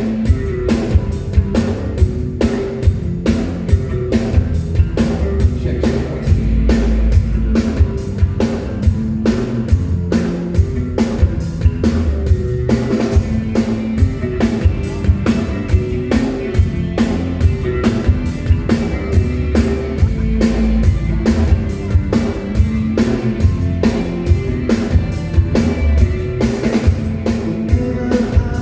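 Live band playing an instrumental rock passage: a drum kit keeps a steady beat of about two hits a second under electric guitar and bass, with no vocals.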